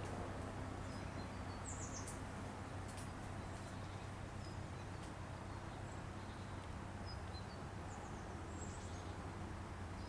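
Lakeside outdoor ambience: a steady low background hum with a few faint, short, high bird chirps, a small cluster about two seconds in and more near the end.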